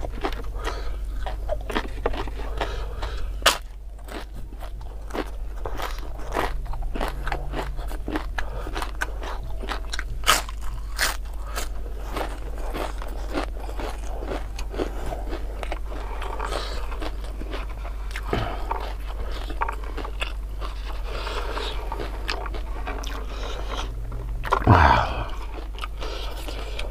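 Close, continuous crunching and chewing as crispy fried tempeh fritters and raw green bird's eye chilies are bitten and eaten, with many sharp crunches. A brief, louder vocal sound falling in pitch comes from the eater near the end.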